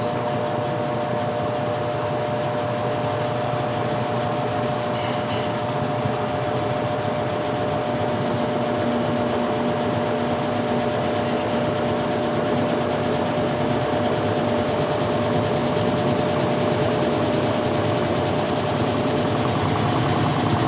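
Electrolux Top 8 top-loading washing machine running through its rinse cycle: a steady motor hum with a constant tone, growing slightly louder.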